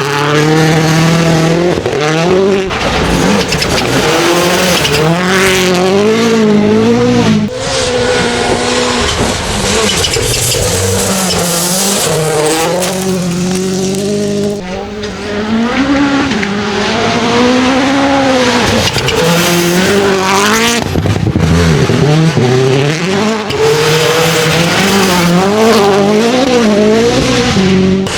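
Turbocharged four-cylinder engine of a Hyundai i20 N Rally1 rally car driven flat out on gravel. The engine note climbs and drops repeatedly through gear changes and lifts, over the hiss and crunch of loose gravel under the tyres.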